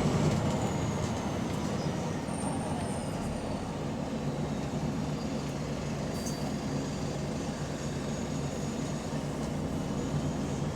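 Diesel engine of a Volvo double-decker bus running steadily under way, a bus with an exhaust leak, with a faint high whine falling slowly in pitch over the first few seconds.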